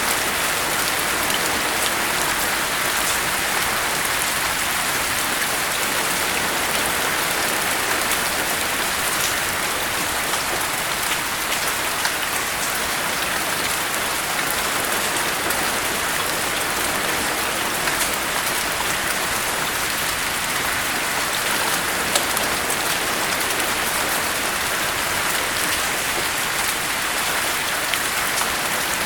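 Steady rain: an even, unbroken hiss with scattered drop ticks.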